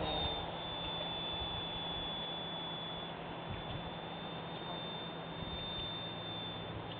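Electric motor and propeller of a small RC model airplane in flight: a steady high whine that dips slightly in pitch near the start and near the end, over a steady hiss.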